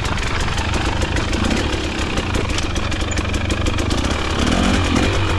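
KTM dirt bike engine running at low, steady revs, with rapid ticking over the engine note.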